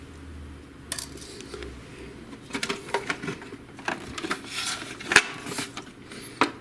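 Irregular clicks and light clinks of small plastic and metal printer parts being handled during disassembly. The clicks come from about a second in, with the sharpest one about five seconds in.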